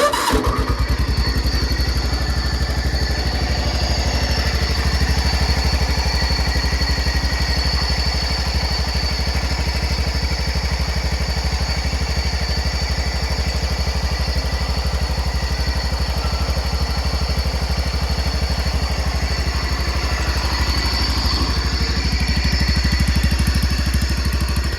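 John Deere 140 garden tractor's single-cylinder engine running steadily, a dense, even low putter.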